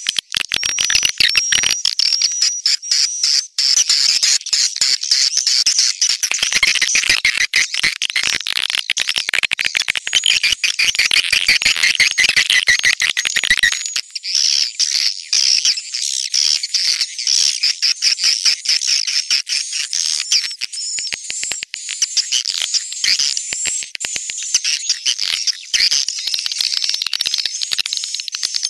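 Swiftlet call recording: a dense, rapid twittering of many high chirps and clicks, the kind of swiftlet lure sound played to draw swiftlets into a nesting house. About halfway through the lower chirps drop out, leaving only the higher twittering.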